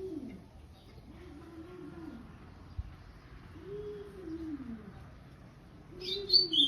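A dove cooing: low, arching hooted coos repeating about every two seconds. Near the end a small songbird starts singing in quick, high, chirped notes.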